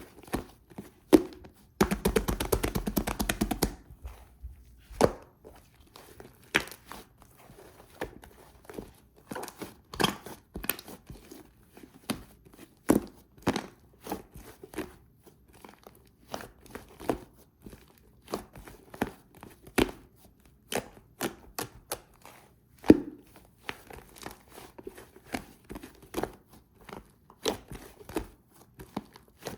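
Slime being squished and pressed by hand, giving a string of wet clicks and pops, with a fast run of crackling about two seconds in.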